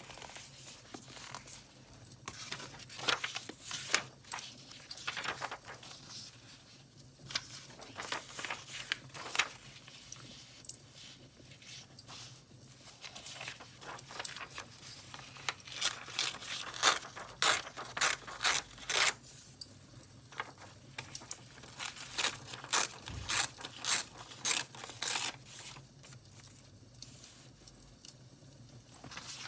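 Paper being torn and crinkled by hand: a series of short, crisp rips and rustles, coming in quick clusters past the middle.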